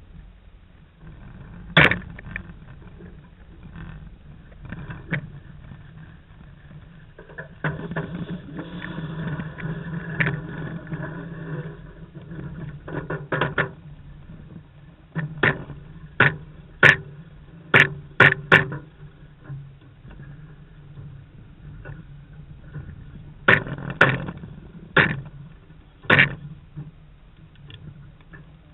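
Deck gear on a sailing yacht during a tack: sharp knocks and clicks, bunched around the middle and again near the end, with a few seconds of steady rough rattling about a quarter of the way in.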